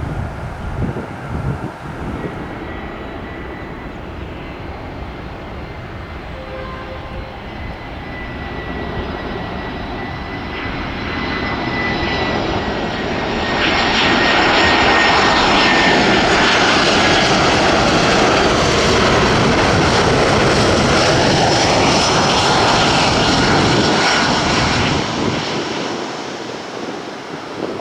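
Jet airliner's engines passing by: a whine that builds over several seconds into a loud, steady engine noise, holds for about ten seconds, then fades near the end.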